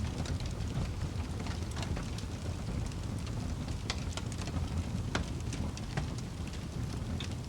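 Wood fire burning in a fireplace: a steady low rumble of flames with scattered sharp crackles and pops, a couple of louder pops about halfway through.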